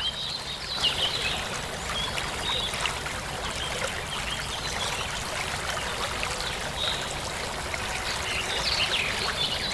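Steady rushing of a flowing stream, with a few short bird chirps over it.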